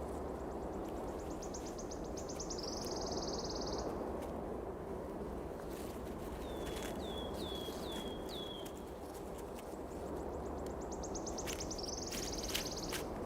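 Forest birdsong over steady low outdoor ambience: twice, a high trill speeds up into a buzzing run, and between them a bird gives four short slurred high notes. Faint scattered ticks.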